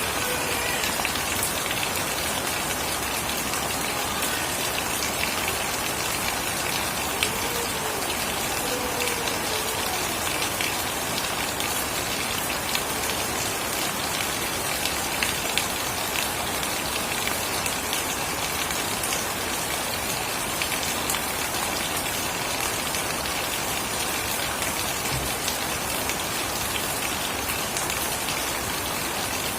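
Steady heavy rain falling, with many sharp taps of individual drops striking surfaces close by.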